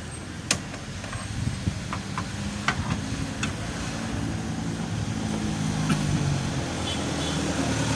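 A motor or engine running steadily with a low drone that grows gradually louder, with a few sharp clicks scattered through it.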